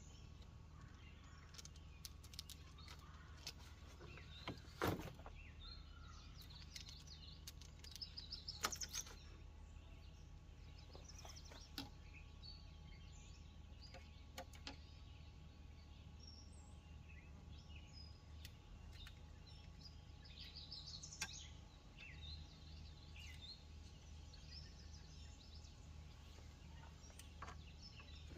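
Faint outdoor ambience: birds chirping now and then over a low steady rumble, with a few sharp clicks or knocks, the loudest about five seconds in.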